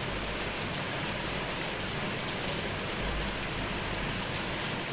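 Steady rain falling and pattering on hard surfaces, with occasional louder drops.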